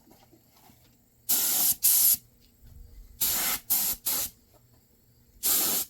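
Aerosol spray paint can giving short hissing blasts, about six in three quick groups, as paint is sprayed onto the inside of a rusty truck frame rail.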